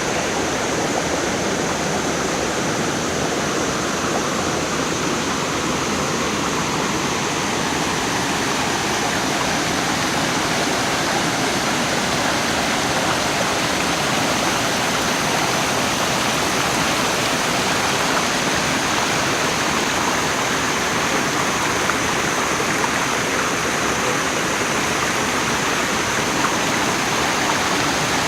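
Steady rush of Haew Suwat waterfall's falling and flowing water, an even roar that does not change.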